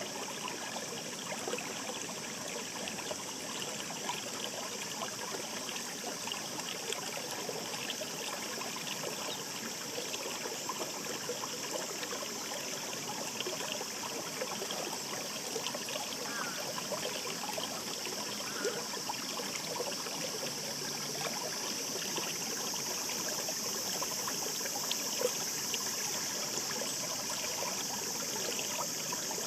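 A shallow mountain stream babbling and trickling steadily over rocks.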